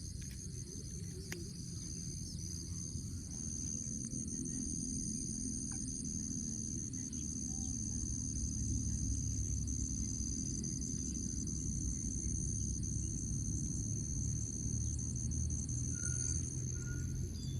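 Crickets or other insects trilling steadily in a chorus of several high pitched bands, over a low rumble that grows louder a few seconds in.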